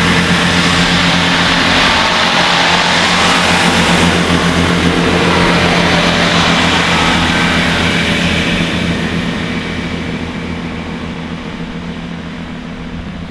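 Class 165 Networker Turbo diesel multiple unit passing close by, its underfloor diesel engines running with a steady low hum over the rush of the train. The sound fades away over the last few seconds as the train moves off.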